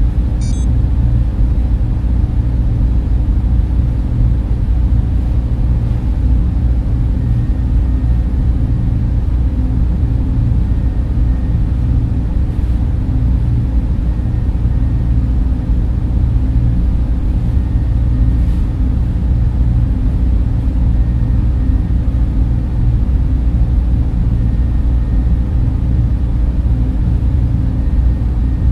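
Data center ambience: server and cooling fans running in a steady, even low hum, with a faint high tone coming and going.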